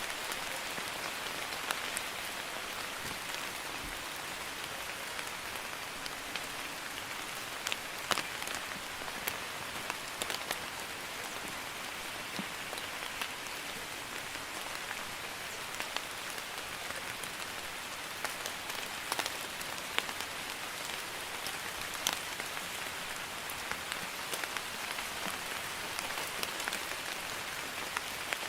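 Light rain (drizzle) falling steadily: an even hiss with scattered louder single drops striking close by.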